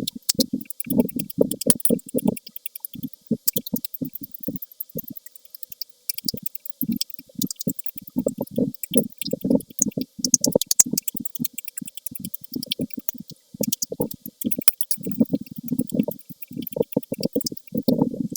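Close-miked chewing of soft food: quick, irregular wet mouth sounds and small clicks, a few per second, with short pauses between bites.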